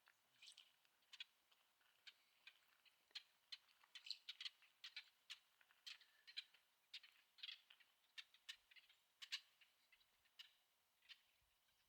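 Faint bird chirps: many quick, sharp calls in an irregular string, thickest in the middle, over a hushed background.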